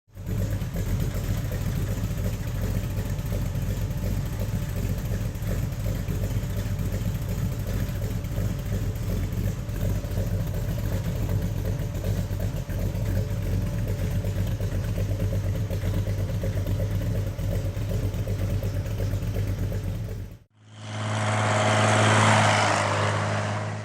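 Vehicle engine running steadily. After a cut about 20 seconds in, an engine sound swells up louder for about three seconds.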